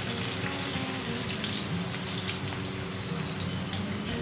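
Chicken shami kababs shallow-frying in hot oil in a pan, with a steady sizzle.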